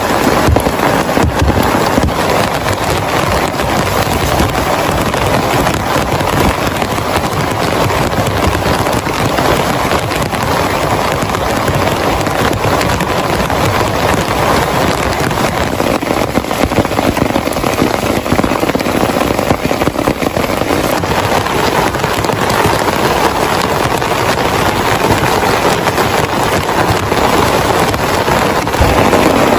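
Heavy rain falling steadily and loudly, a dense mass of drops striking a surface.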